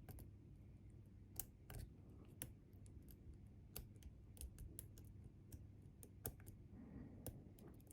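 Faint, irregular small clicks and ticks of a lock pick working the sliders inside a Bi-Lock cam lock.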